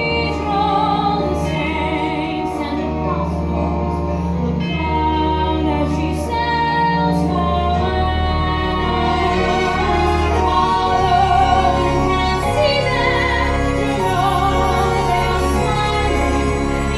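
Music: a woman singing a slow song with vibrato over instrumental accompaniment with sustained bass notes.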